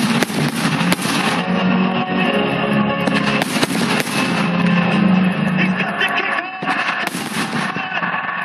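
Music playing through a fireworks display, broken by fireworks going off: noisy bangs and crackling bursts at the start, about a second in, around three and a half to four seconds, and again around seven seconds.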